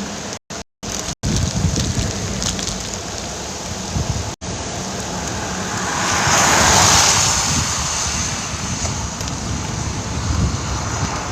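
Wind buffeting the microphone, with rain, during a bicycle ride in a thunderstorm: a steady rushing noise that swells louder and hissier about six seconds in. The sound drops out briefly a few times near the start.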